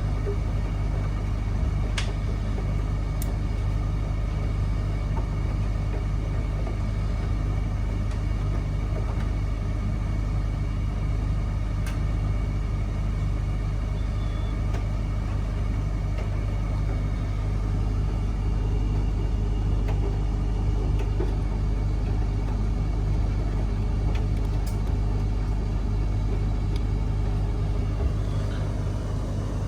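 Miele W1 front-loading washing machine running with a steady low hum, a few faint ticks standing out over it.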